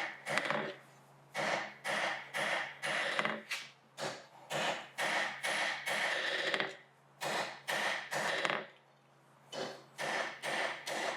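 Hand hammer striking hot steel bar on an anvil, about two blows a second in runs broken by short pauses, each blow ringing: forging a lump down into a taper.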